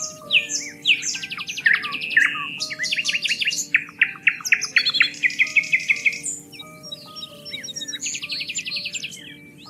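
Several songbirds chirping and calling in rapid trills of quick repeated notes, over soft background music of long held low notes.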